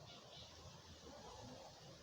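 Near silence: a faint, steady low rumble and hiss.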